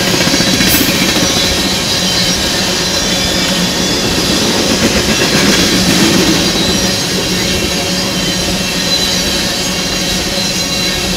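Loaded railroad tank cars rolling past on the rails: a steady rumble and rattle of steel wheels, with a steady humming tone running underneath.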